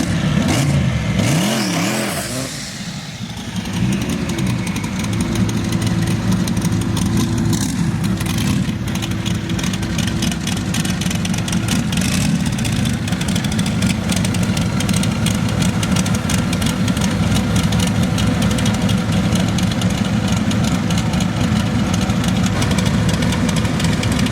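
Race car engine revving in a few quick rises and falls, then running steadily at an even pitch.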